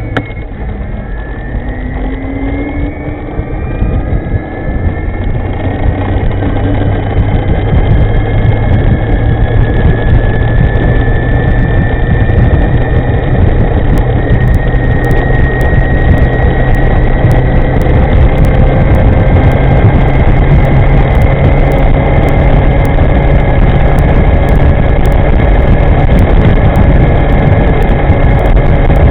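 Riding on an e-moving electric scooter with an upgraded Jordan V200 drive: its electric motor whines under heavy wind rumble on the microphone. In the first few seconds the whine falls and climbs again, then it rises slowly in pitch while the wind noise builds and holds loud as speed picks up.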